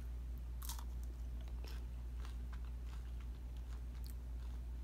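A person biting into a loaded tortilla-chip nacho and chewing it with scattered crisp crunches, the loudest about two-thirds of a second in, over a low steady hum.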